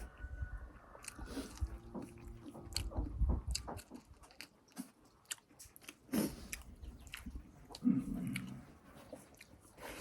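Close-miked chewing and biting of buffalo-foot meat and rice, with many short wet mouth clicks and smacks.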